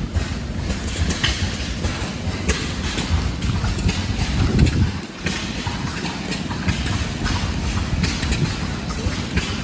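Old stationary gas engines running, with irregular sharp knocks over a heavy low rumble.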